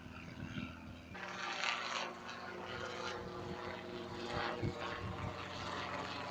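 A helicopter running, a steady drone of engine and rotor that grows fuller about a second in.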